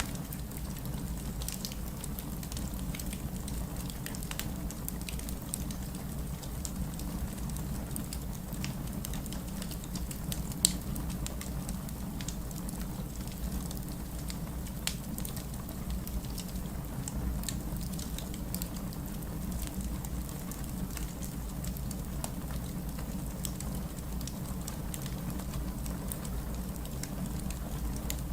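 Steady heavy rain mixed with a wood fire crackling, its scattered snaps and pops over the rain's even rush. One sharp pop stands out about a third of the way through.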